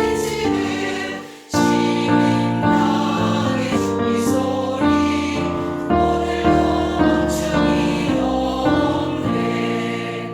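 Choir music with sustained, slowly changing chords.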